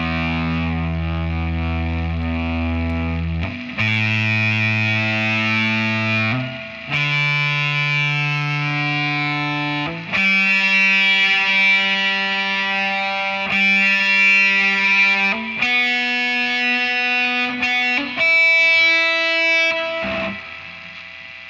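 Electric guitar playing a series of held chords, each ringing about two to three seconds before the next; it drops quieter near the end.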